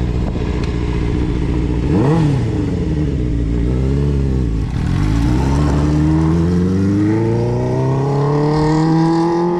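Suzuki GSX-R600 inline-four engine revving briefly and unevenly, then pulling away with its pitch rising steadily for several seconds in one gear with no shift: a learner holding a low gear too long.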